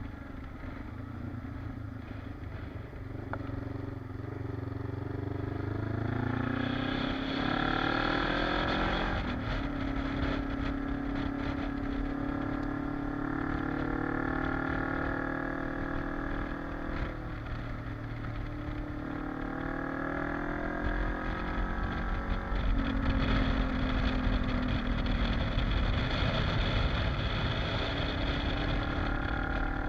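Kawasaki KLE dual-sport motorcycle engine running under way, its pitch climbing as it accelerates and dropping back at gear changes several times, with a heavy low rumble underneath.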